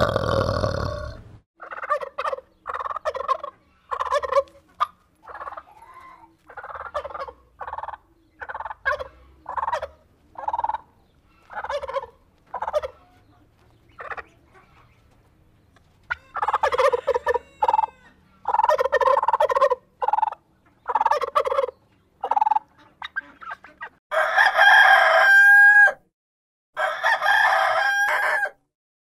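Domestic fowl calling: a long run of short repeated calls, louder and more bunched about two-thirds of the way through, then two long crow-like calls near the end.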